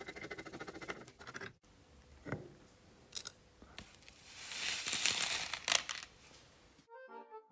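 Workshop work sounds: a fast run of clicks for about a second and a half, then scattered knocks and a rising, rushing scrape. Music comes in near the end.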